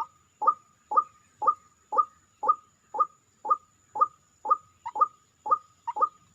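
White-breasted waterhen calls: a short call repeated evenly about twice a second, with extra calls coming in between from about five seconds in.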